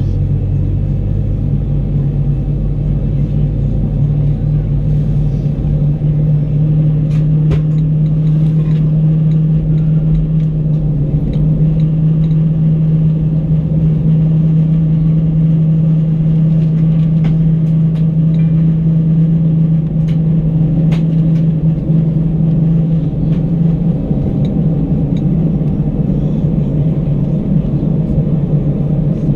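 Airbus A319 engines running at low power, heard from inside the cabin: a steady low rumble with a droning hum that fades out near the end.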